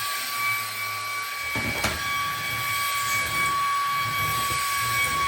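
Ryobi cordless stick vacuum running steadily, a high-pitched motor whine over a rushing hiss. About one and a half seconds in, an uneven low rumble joins, with a single knock shortly after.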